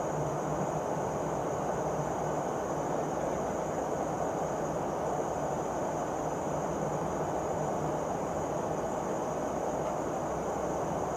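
Steady in-flight cabin noise of a P-8A Poseidon patrol aircraft: an even rush of airflow and jet-engine drone, with a low hum and a faint thin high whine.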